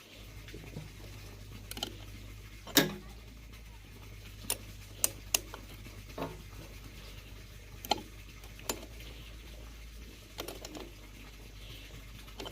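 Scattered sharp clicks and light knocks, about ten of them at irregular spacing, the loudest about three seconds in, over a steady low hum.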